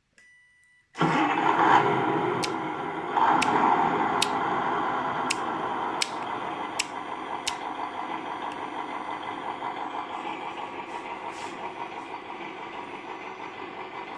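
Simulated truck engine sound from a WPL B36 Ural RC model truck, played through a small speaker: a short faint beep, then the engine starts abruptly about a second in and settles to a steady idle that slowly fades. Sharp clicks come about once a second during the first several seconds.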